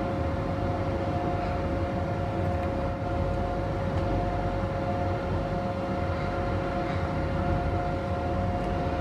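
Steady mechanical hum: two held tones over a low rumble, unchanging throughout, with a few faint, brief high-pitched sounds.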